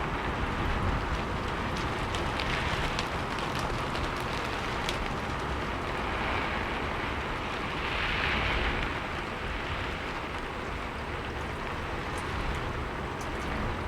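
Steady rainfall with scattered individual drops ticking through it, swelling briefly a little louder about eight seconds in.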